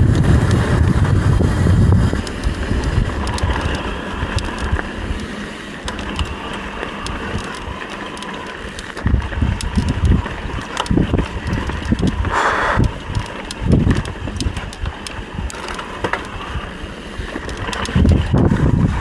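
Mountain bike riding over a rough trail: wind buffeting the microphone, loudest in the first two seconds, with tyre noise and irregular clicks and rattles from the bike over rocky ground.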